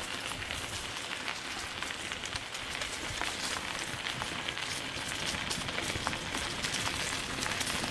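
Bicycle tyres rolling over a wooded dirt path littered with leaves and twigs: a steady rustling crackle full of small ticks.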